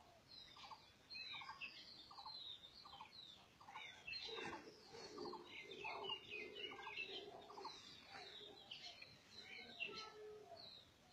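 Birds chirping, with one repeating a short note about twice a second. Lower calls join from about four seconds in until near the end.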